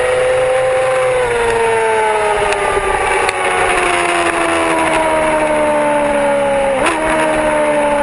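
Yamaha R6 sport bike's inline-four engine heard from on board, its note falling slowly as the bike slows, with a brief break and a step in pitch about seven seconds in, then holding steady, under a constant hiss.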